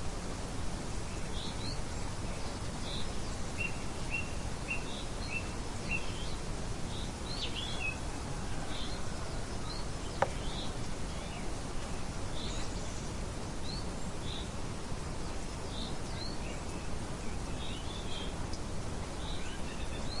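Steady rain hiss with small songbirds chirping throughout, including a run of about five short, evenly spaced notes a few seconds in. A single sharp tick sounds about halfway through.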